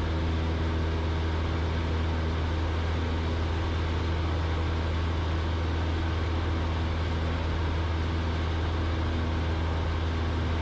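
Cessna 172's piston engine and propeller running steadily in flight, heard inside the cabin as a constant low drone with an even rush of air noise.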